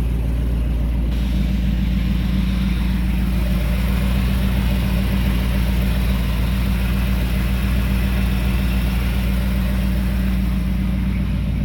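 Old truck's engine idling steadily while it warms up from a cold start, running smoothly on a freshly changed fuel filter.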